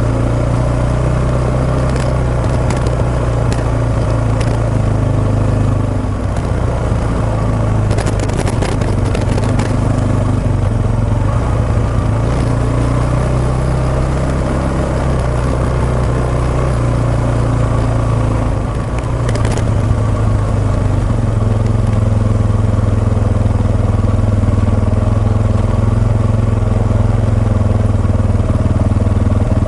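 Suzuki Djebel 250XC single-cylinder engine running steadily under way, with the engine note easing briefly twice. Short crackles of microphone noise cut in a few times, around a third of the way in and again past the middle.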